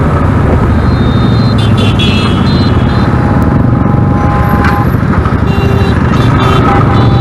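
Several motorcycle engines running, a steady loud rumble, with a few brief higher tones over it.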